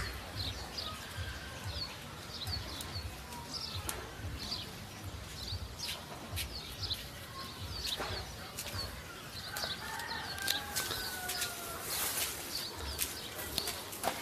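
Small birds chirping over and over, short high calls, with scattered rustles and clicks.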